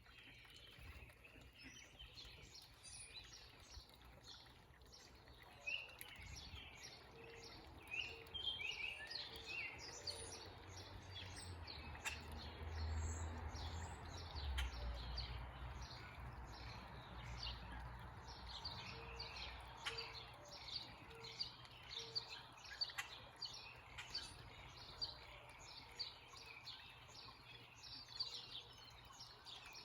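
Several small backyard birds chirping rapidly and continuously, with a repeated lower call in short notes now and then, over a steady background hiss and a low rumble that swells in the middle.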